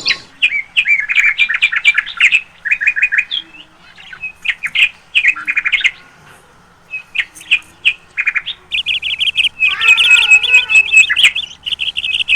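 Pet lovebirds chirping in quick runs of short, high notes, with a lull about six seconds in, then denser, unbroken chirping toward the end.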